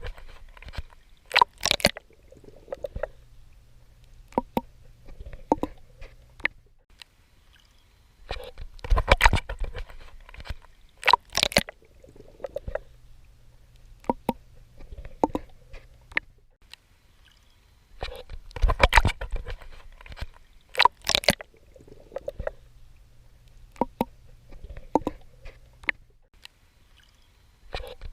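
A swimmer's strokes at the water surface: clusters of sharp splashes and sloshing, with softer gurgles between them. The pattern repeats about every ten seconds.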